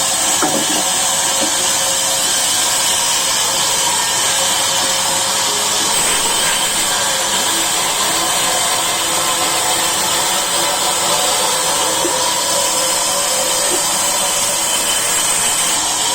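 Sawmill saw running steadily: a loud, even machine noise with a high hiss and several steady whining tones.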